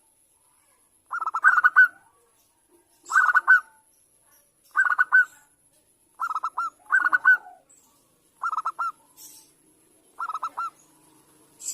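Zebra dove (perkutut) singing: short rippling cooing phrases, repeated about every one and a half to two seconds.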